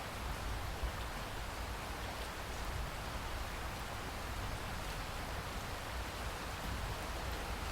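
Steady heavy rain falling in a rainforest, an even hiss with a low rumble underneath.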